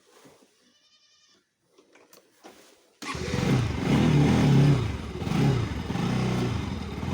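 Near silence for about three seconds, then a motorcycle engine cuts in suddenly and runs loud and rough, its pitch wavering as the bike is ridden.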